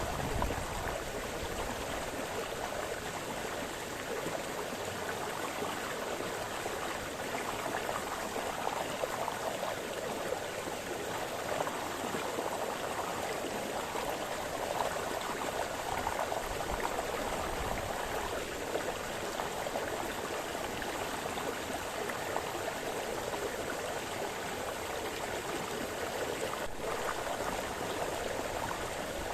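A small brook splashing and burbling steadily over stones, an even rush of flowing water with small gurgles rising and falling.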